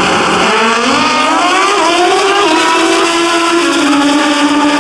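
Two drag-racing motorcycles launching and accelerating down the strip. Their engines climb in pitch and drop back a step at each of a few gear changes, then hold a high steady note.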